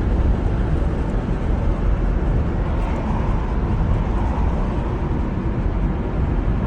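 Steady low rumble of a moving car heard from inside the cabin: road and engine noise with no distinct events.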